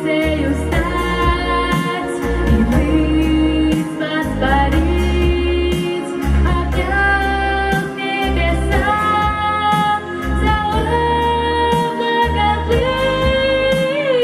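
A woman singing a song with long held notes over instrumental backing that has a strong bass line and light percussion.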